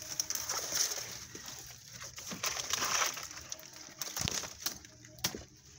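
Dry brush rustling and crunching, with scattered sharp clicks and knocks, as someone scrambles up a rocky slope.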